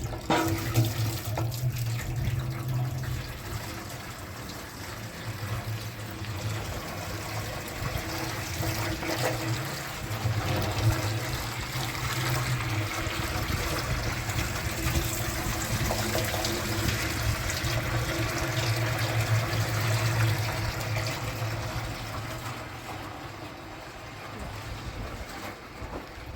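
Washing machine running with water sloshing inside, its motor humming low in spells of a few seconds with short pauses between.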